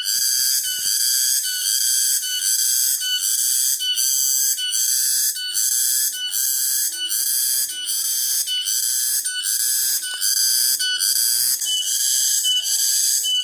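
Cicadas calling in a loud, high-pitched, pulsing drone that beats evenly about twice a second without a break.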